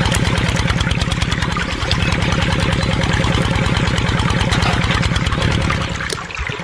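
Small mini tractor engine running steadily at idle, a rapid, even chugging of firing pulses.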